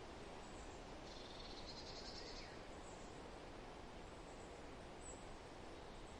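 Faint forest ambience: a steady rustling hiss of wind, with a few faint high bird chirps and a rapid high trill lasting about a second and a half, starting about a second in.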